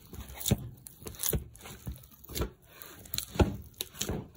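Hands kneading butter into bread dough in a bowl: irregular soft slaps and knocks about once a second over squishing and rustling.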